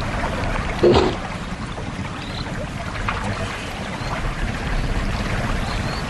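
Steady outdoor rush of wind and moving water, with a short, sharp animal call about a second in.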